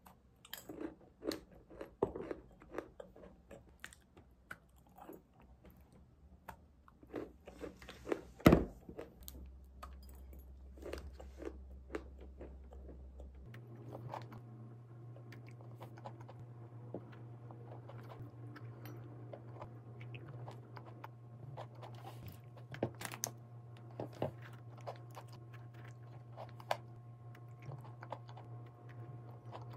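Close-up chewing and biting of a dense chocolate cookie with chocolate chips that crunch: irregular crisp crunches and mouth sounds, one louder crunch a little over a quarter of the way in. A steady low hum sets in near the middle.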